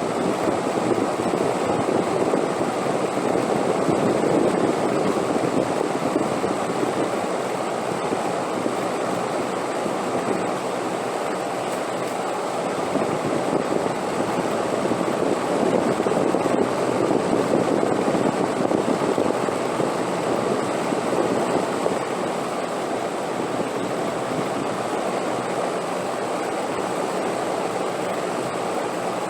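Wind blowing steadily, rising and easing in slow swells.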